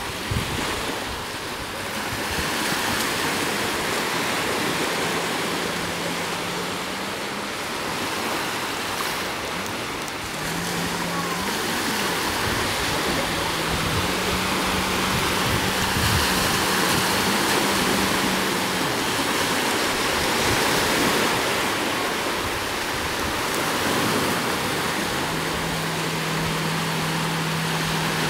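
Jet ski out on the water: a steady rush of water spray and wind, with the engine's drone underneath stepping up and down in pitch a few times.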